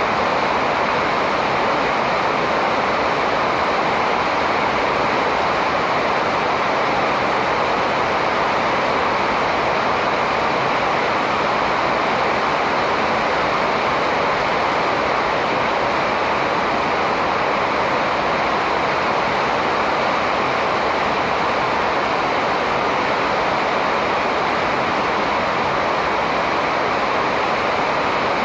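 Steady, even rushing of water, unchanging, with no birdsong standing out.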